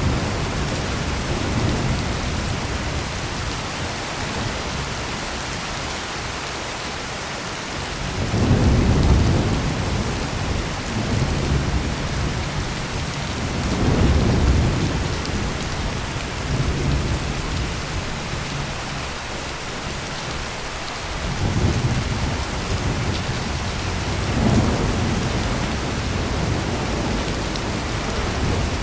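Heavy rain pouring steadily, with deep thunder rumbling in low swells that rise and fade several times, the first about eight seconds in.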